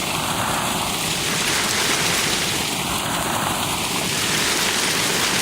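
Heavy hail pelting down onto the ground and surfaces, a dense, steady clatter of many small impacts with the stones large by now.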